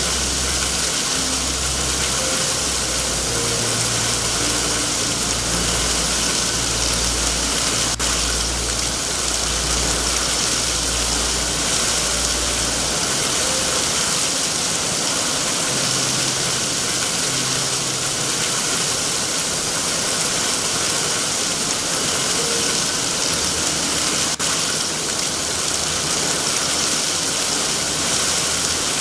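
Heavy, steady rain hiss with a deep low rumble underneath that drops away about halfway through and comes back near the end.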